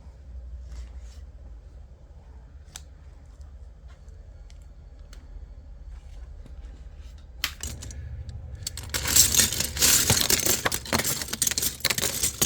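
Small hard objects clattering and jangling as someone rummages through them, loud and dense for the last few seconds. Before that there is only faint room tone with a few light clicks.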